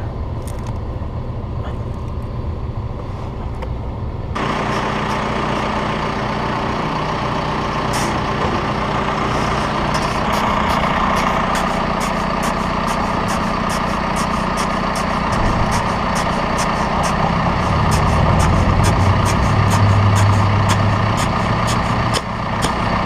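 Heavy diesel machinery engine running, stepping up louder and noisier about four seconds in, with a fast run of clicks or clanks over the second half and a stronger low engine note near the end.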